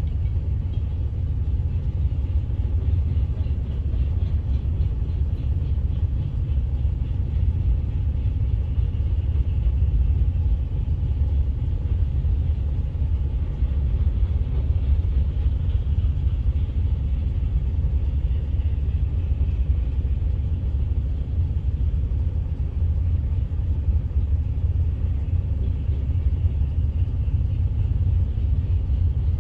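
Loaded coal hopper cars of a long freight train rolling steadily past a grade crossing, a continuous low rumble heard from inside a car's cabin.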